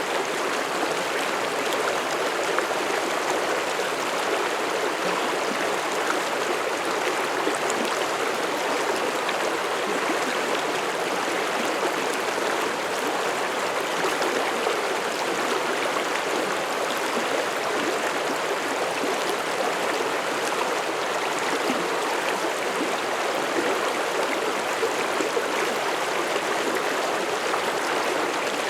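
Mountain stream rushing and babbling over rocks, a steady even flow of water.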